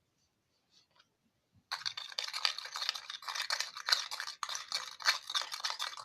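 Slime being stirred and mixed in a container after activator is added: a dense, scratchy scraping and squishing that starts a little under two seconds in and keeps going with brief gaps.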